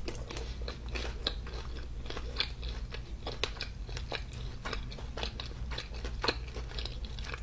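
Close-miked chewing of fried chicken tenders: irregular crunching bites and small wet mouth clicks, several a second.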